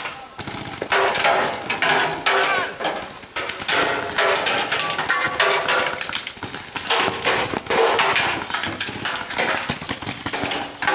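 Paintball markers firing in rapid strings of sharp pops, coming thick and fast, with players' voices calling out among them.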